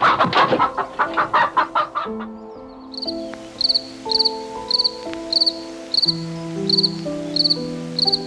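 A domestic fowl calls in a rapid run of about ten loud clucks for the first two seconds. From about three seconds in, a gentle melody of held notes plays, with short high cricket chirps about twice a second.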